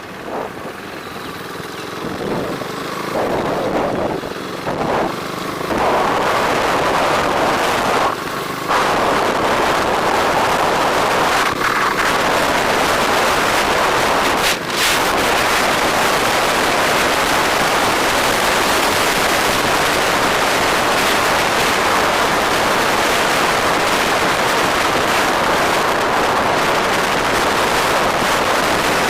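Wind rushing over the microphone of a moving bike, mixed with road and traffic noise. It builds over the first several seconds, then stays loud and steady with only brief dips.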